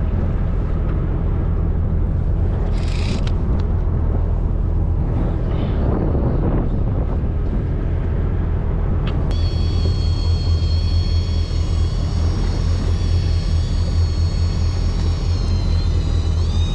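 Fishing boat's engine running with a steady low rumble. About nine seconds in, a thin high whine of several steady tones joins it and wavers in pitch near the end.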